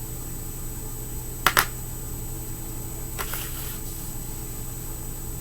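Two quick sharp clicks about a second and a half in, and a fainter click a little later, from small hard objects being handled, over a steady low hum.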